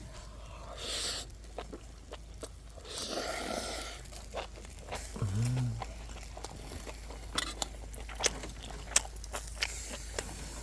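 A person eating grilled beef rib and noodles. Two breathy noises come in the first four seconds, then a short hummed 'mm' about five seconds in, then a run of small chewing clicks and crunches.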